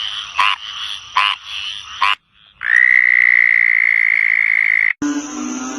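Frogs calling: short croaks repeating a little under once a second, then after a short break a long, even, high-pitched trill of about two seconds. Near the end the trill cuts off suddenly and a lower-pitched call begins.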